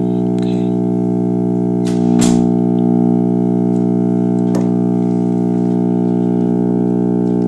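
Radio putting out a loud, steady buzzing hum instead of normal audio, with a couple of short clicks about two and four and a half seconds in: the fault being troubleshot.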